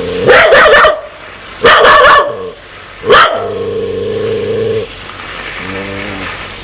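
A dog threatening to bite: three loud barks in the first few seconds, then a long, even growl, and a shorter, fainter growl near the end.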